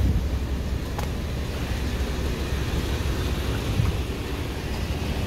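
Cars idling in a slow drive-through queue: a steady low rumble, with a single sharp click about a second in.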